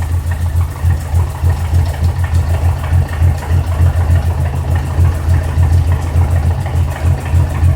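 1983 Alfa Romeo Spider's twin-cam four-cylinder engine idling with a steady, even throb and no ticking, its exhaust manifold sealed with new gaskets, brass nuts and split washers.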